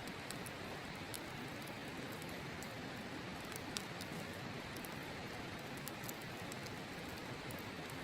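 Wood fire crackling with scattered sharp pops, over the steady rush of a river.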